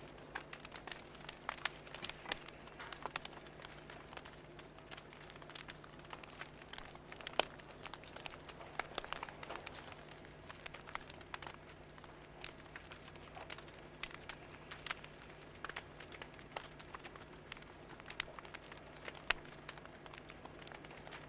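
Fire crackling: irregular small pops and snaps, scattered unevenly throughout, over a steady low hum.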